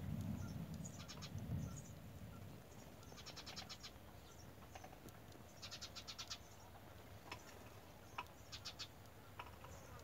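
A bird calling in three short, rapid runs of high chirping notes, with a few single clicks between them. A low rumble comes in the first two seconds.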